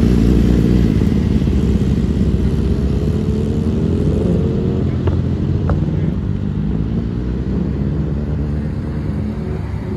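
Vehicle engine running loudly, its note climbing in pitch for a couple of seconds in the middle as it accelerates, then easing off and slowly getting quieter.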